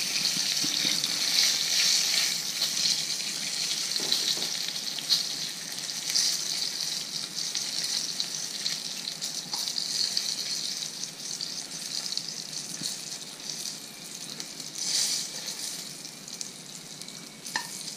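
Coated sea-run trout pieces sizzling in hot oil in a frying pan, the sizzle slowly dying down as the pieces are lifted out.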